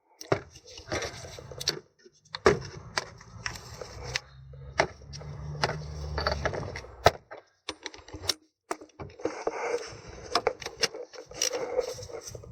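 Hand tools and metal parts clicking, clinking and scraping as a bolt and parts of the gear shift actuator are refitted, with a low steady hum for a few seconds near the middle.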